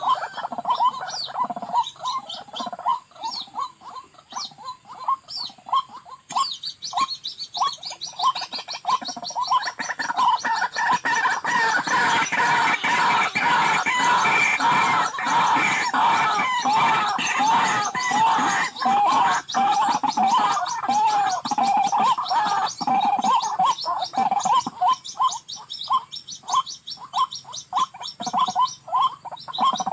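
White-breasted waterhens calling: short repeated notes, a few a second, that build about ten seconds in into a loud, dense chorus of overlapping calls, then thin out to spaced single notes again near the end.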